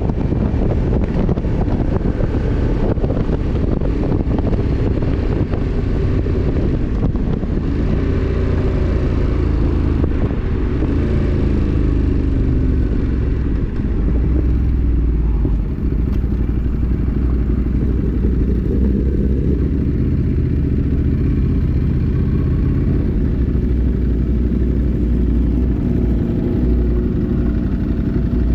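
A 1000 cc motorcycle's engine running while riding, with heavy wind noise on the microphone. Its pitch rises and falls with the throttle partway through.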